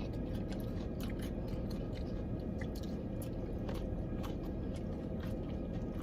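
Close-up chewing and biting into crispy fried chicken wings, with scattered crunchy clicks over a steady low hum.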